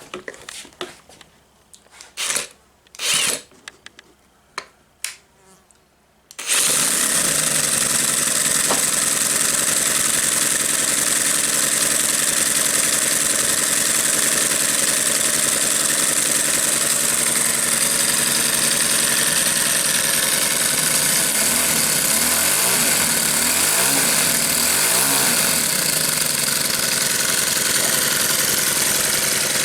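Scale model single-cylinder four-stroke engine with a single-lobe cam being started: a few short bursts, then about six seconds in it catches and runs steadily.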